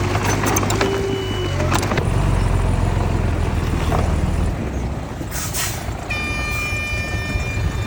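Heavy earthmoving machinery running steadily at a site worked by a bulldozer and dump trucks, with a few clanks in the first two seconds. About five seconds in there is a short hiss, followed from about six seconds by a steady high-pitched whine.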